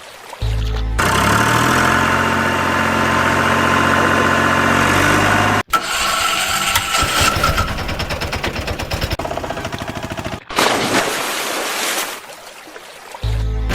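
Engine sound starting and running, in several segments that cut off abruptly, with a steady pitched run first and then a rapid, regular firing pulse.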